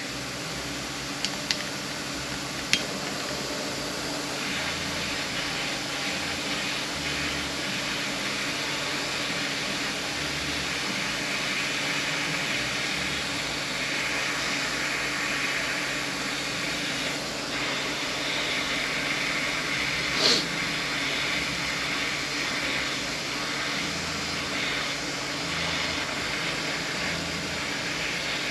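Mini torch flame hissing steadily while it heats a thread-locked part to loosen the thread locker. A few light clicks come near the start, and a single knock about twenty seconds in.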